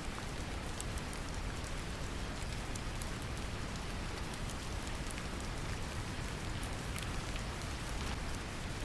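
Brown noise mixed with gentle rain: a steady deep rumbling hiss with scattered raindrop ticks on top.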